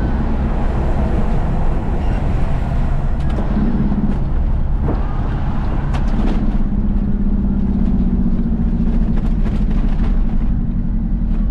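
Isuzu FRR90 truck's diesel engine running steadily on the move, with road and cab rumble. The engine note grows firmer about six seconds in, and there are a few short knocks and rattles.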